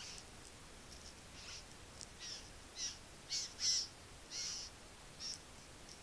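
A bird giving a series of short, harsh calls, about ten in a few seconds, the loudest just past the middle; some of them slide downward in pitch.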